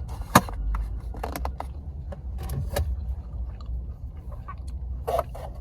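Someone chewing tough biltong, with scattered sharp clicks and crackles, over a steady low rumble.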